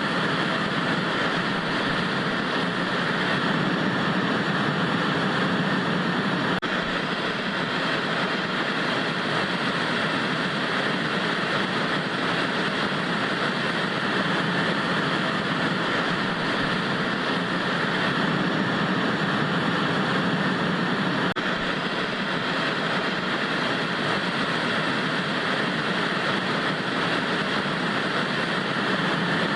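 Steady hiss of analog TV static, an even white-noise rush with no change in level or pitch.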